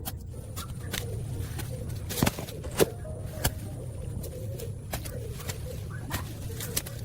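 Irregular sharp clicks and knocks, a few louder than the rest, over a steady low hum.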